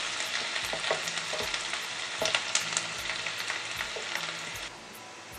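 Chopped garlic and onion sizzling in hot oil in a white-lined wok while the onion browns lightly, stirred with a wooden spatula that now and then scrapes and taps the pan. The sizzle turns quieter near the end.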